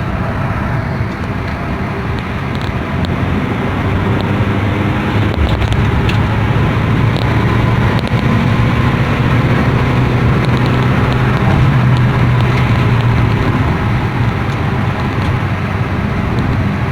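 A Honda Brio Satya's 1.2-litre four-cylinder engine running while the car is driven, mixed with road and tyre noise. The engine hum grows louder about five seconds in, holds for several seconds, then eases a little.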